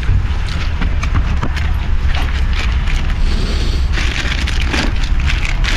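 Wind buffeting the microphone as a steady low rumble, with irregular crackling and rustling handling noises.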